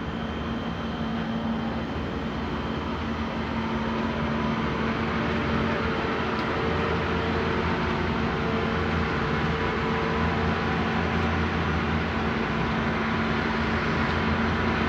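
Ford Expedition SUV engine running steadily as the SUV is driven slowly forward at close range, a continuous hum.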